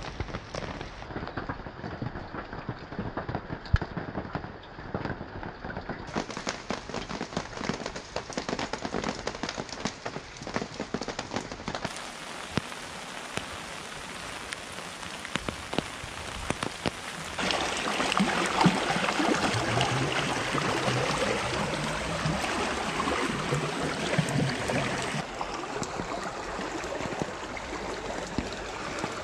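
Steady rain falling, a dense patter of countless small drops on leaves and ground. About two-thirds of the way through the sound steps up, louder and denser, as the flowing water of a muddy, rain-swollen creek joins the rain.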